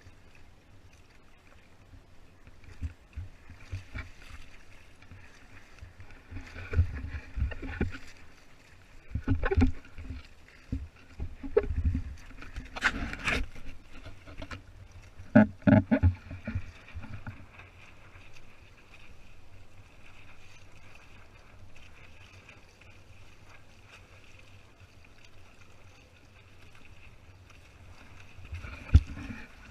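Water sloshing and slapping against the hull of a pedal kayak under way, with irregular knocks and splashes, the loudest a little before and a little after the middle.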